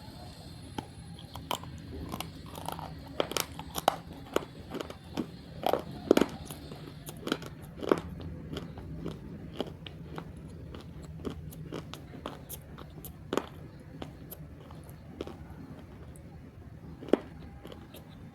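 Close-up biting and chewing of roasted multani mitti (Fuller's earth clay), a run of sharp, brittle crunches. They come thick and fast for the first several seconds, then thin out to occasional crunches, with one loud crunch near the end.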